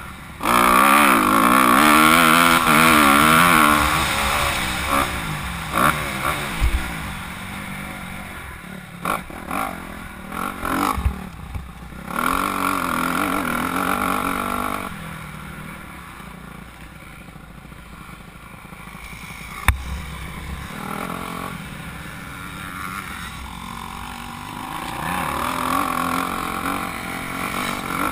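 Motocross bike engine revving up and down on the track, loudest in the first few seconds and again about twelve seconds in, dropping off between, with scattered sharp knocks.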